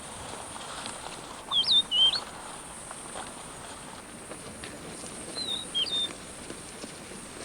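A bird giving two short bursts of quick whistled notes that swoop up and down in pitch, over a steady faint hiss of background ambience.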